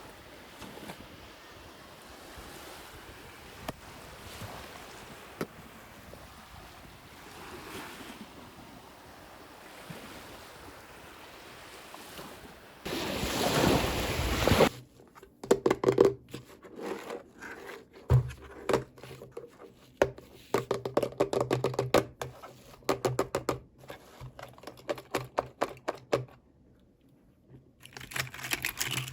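Toy packaging being handled: a soft steady rustle, a louder rush of crinkling about halfway, then many quick plastic clicks and rattles.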